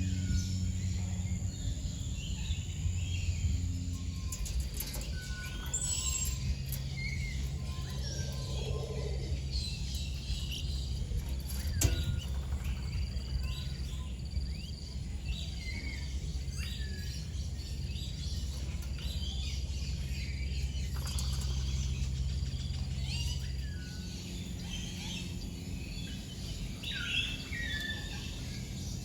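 Many birds chirping and whistling in short calls in an aviary, over a steady low hum that fades out late on.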